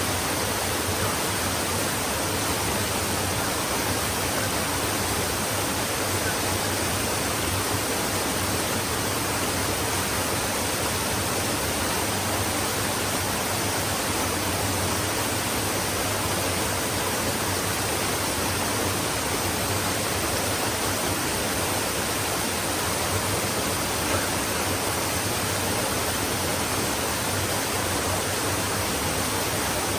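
Stream water flowing over rocks in a steady, dense rush with no breaks or changes.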